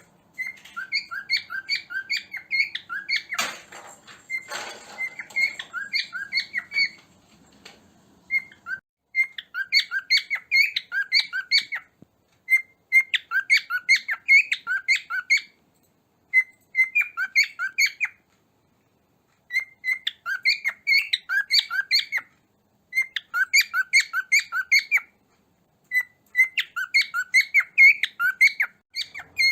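Cockatiel chirping in fast runs of short, high calls, several bouts broken by brief pauses. A short rustling noise comes through about three seconds in.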